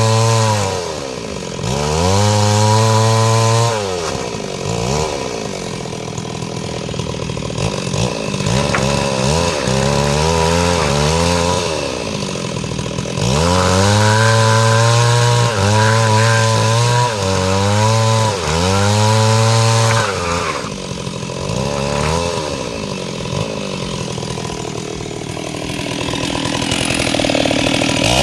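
STIHL MS 382 two-stroke chainsaw with a 30-inch bar sawing mahogany. The engine rises to full throttle and falls back again and again, with longer spells of lower, uneven revs between the cuts.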